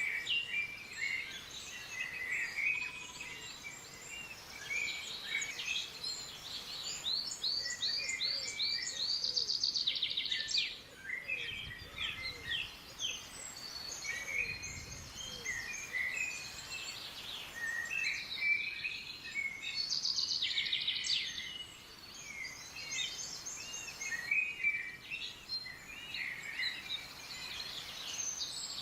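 Several songbirds chirping, whistling and singing over each other, with two spells of fast trilled song, one about a third of the way in and one about two-thirds through.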